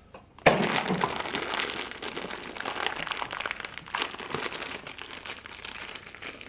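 Crinkling and rustling of a mystery-mini blind-box packaging being handled and opened, starting suddenly about half a second in and going on as irregular crackles.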